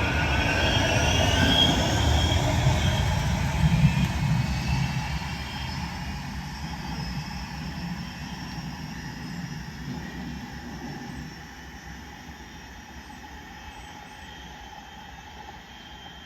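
Manchester Metrolink tram running past, with a whine rising in pitch in the first few seconds, then its rumble fading steadily as it moves away.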